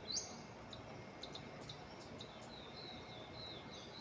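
Birds chirping in the early morning: a quick rising whistle at the start, then scattered short chirps and a run of repeated high notes in the second half, over a faint steady hiss.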